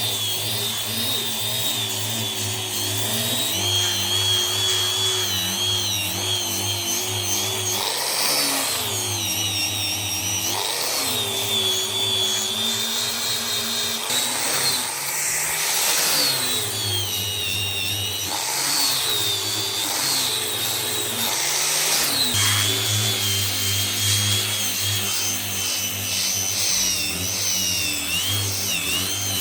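Power tool motor running continuously on the workpiece, its pitch wavering and dipping several times as it is pressed under load, then recovering.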